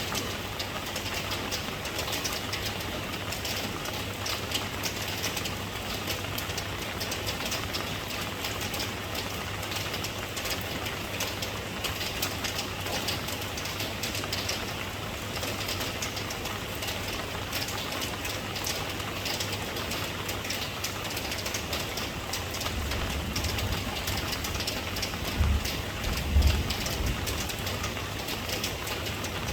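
Steady rain falling, a dense patter of drops over a constant hiss. A low rumble swells in over the last several seconds.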